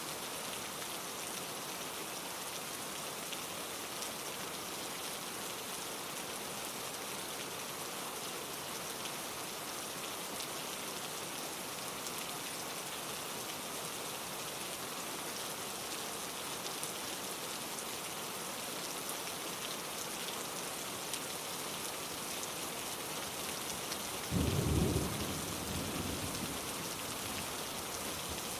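Steady rain falling. Near the end a sudden deep rumble of thunder breaks in, loudest for about a second, then fades away.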